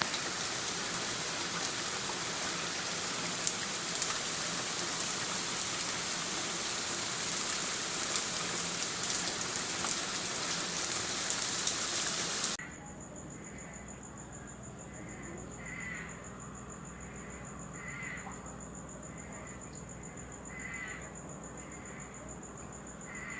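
Heavy rain falling in a steady dense hiss; about halfway through it cuts off abruptly to a quieter scene where a bird gives short repeated calls over a steady high-pitched whine.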